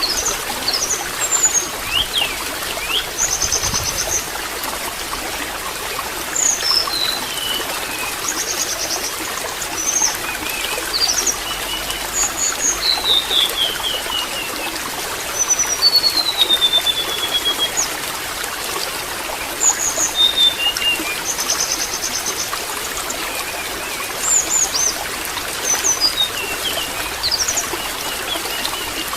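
Steady trickling, splashing water with small birds chirping and whistling over it, including short rapid trills and a few longer descending whistled runs.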